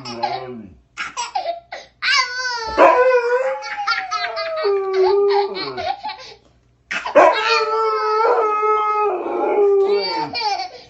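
A baby squealing and howling, with a dog howling back, their pitched cries overlapping in two long stretches separated by a pause of about a second.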